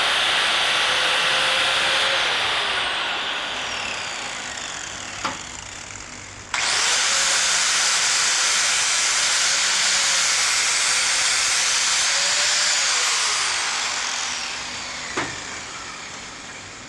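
Angle grinder running at speed while cutting, then switched off and spinning down with a falling whine. A knock comes near the end of the spin-down. It starts again abruptly about six and a half seconds in, and twice more it spins down with a falling whine and a knock.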